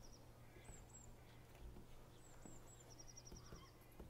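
Near silence with faint bird chirps: short, high, slightly falling calls in twos and threes, and a quick trill near the start and again about three seconds in, over a faint steady low hum.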